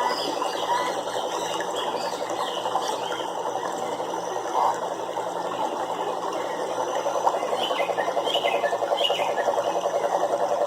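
Chorus of frogs calling, a dense rapid trill with scattered higher chirps; the pulsing grows more even in the second half.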